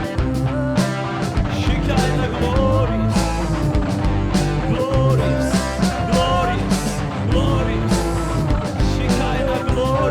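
Live worship band music with electric guitar and drums, a sustained melodic line over a steady beat.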